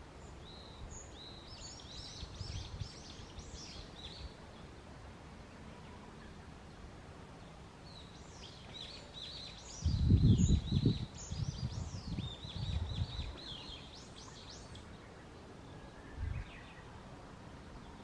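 Varied tit singing two runs of high, quickly repeated notes, the second from about eight and a half to fifteen seconds in, with a short phrase near the end. Low rumbles, the loudest sound, come under the second run about ten to thirteen seconds in.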